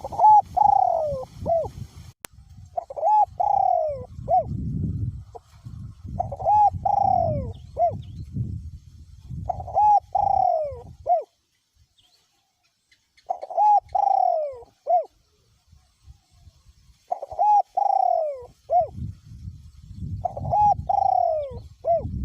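Male spotted dove cooing: seven short phrases of a few coos, each with one longer falling note, repeated every three to four seconds. Low wind rumble on the microphone between phrases.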